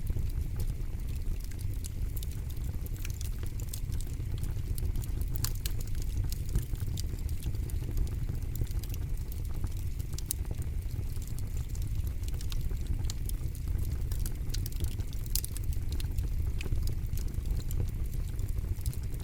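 Campfire crackling, with frequent sharp pops and snaps over a steady low rumble of burning wood.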